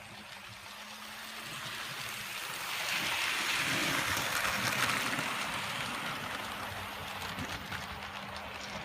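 Garden-scale model train running past on the outdoor track: a rolling hiss of wheels on rail that swells to a peak about three to five seconds in, then fades, with a faint steady hum under it.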